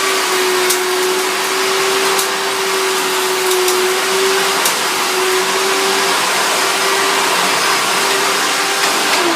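Hoover Bagless Twin Chamber upright vacuum cleaner running at full speed: a steady motor whine over a dense rush of air, with a few faint ticks. The pitch sags right at the end.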